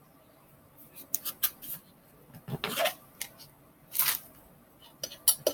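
Utensil clicks and short scrapes against a container, scooping out blended pinto beans, in several separate bursts.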